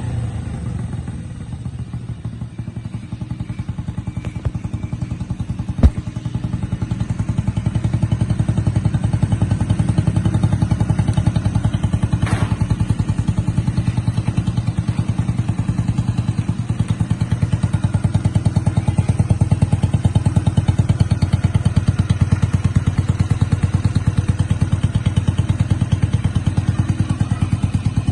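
Restored 1979 Honda motorcycle engine idling steadily, with one sharp click about six seconds in.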